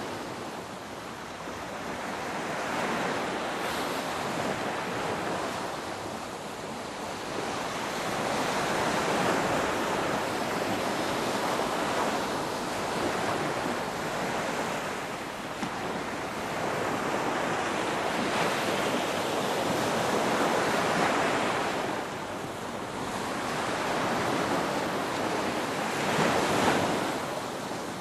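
Ocean waves breaking and washing on the shore, the surf swelling and easing every few seconds, with some wind.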